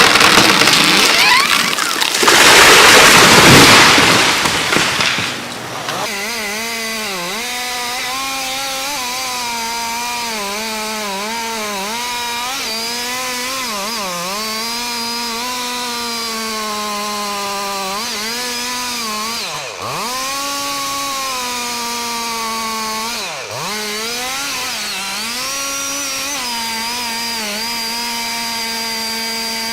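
A loud noisy rush for the first few seconds, then a two-stroke chainsaw running steadily at high revs, its pitch wavering under load and dipping sharply twice as the chain bogs in the cut.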